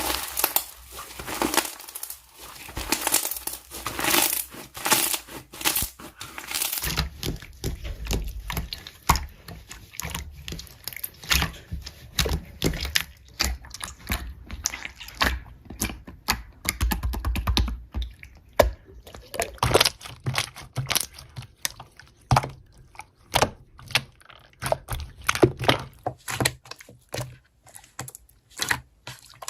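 Slime being squeezed, poked and stretched by hand, with rapid crackling and clicking pops. The background changes abruptly about seven seconds in and again around twenty seconds, as one clip gives way to the next.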